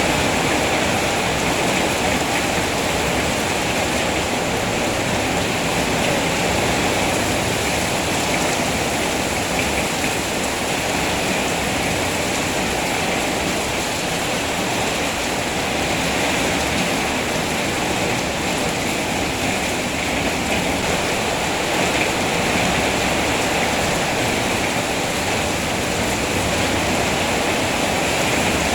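Steady rainfall, a continuous even hiss with no breaks or distinct drops standing out.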